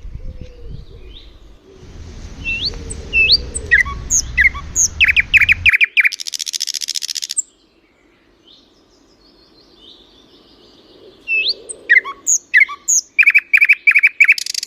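A small songbird singing: sharp upswept whistles and quick chirps, a fast buzzy trill about halfway through, then a run of rapid repeated chirps near the end.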